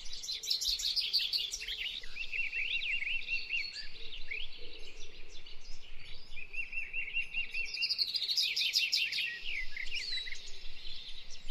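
Several birds singing and chirping together, with two stretches of quick wavering warbles, one about two seconds in and one past the middle, over clusters of rapid high chirps.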